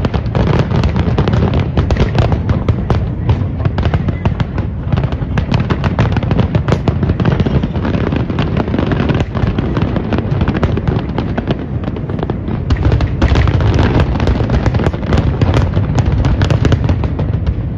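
Fireworks going off in a dense, continuous barrage: many sharp bangs and crackles a second over a low rumble, growing denser in the later part.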